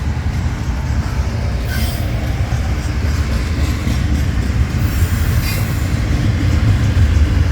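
Norfolk Southern intermodal freight train's cars rolling past: a steady low rumble of steel wheels on the rails, with brief higher metallic squeals about two and five seconds in.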